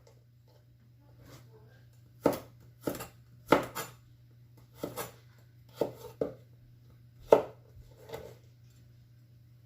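Kitchen knife slicing garlic cloves on a cutting board: about a dozen sharp, irregularly spaced knocks of the blade on the board, some in quick pairs, between about two and eight seconds in, over a steady low hum.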